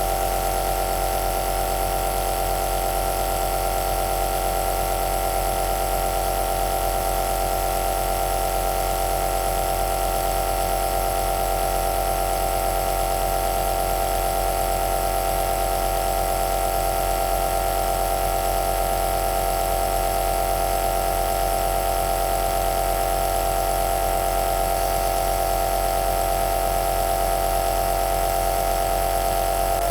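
Compressor nebuliser (aerosol machine) running steadily: a continuous motor-and-pump hum with a hiss of air, no change in pace.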